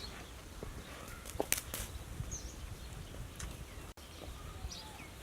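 Rural outdoor ambience: small birds chirping now and then over a low background rumble, with a few sharp clicks or taps about a second and a half in and again around three and a half seconds.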